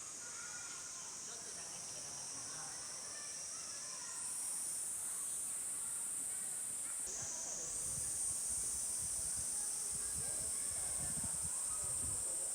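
Insects buzzing in a summer forest, a steady high-pitched drone that jumps in level a couple of times as the shots change, with faint short chirps in the first half. Low, irregular rustling joins from about halfway.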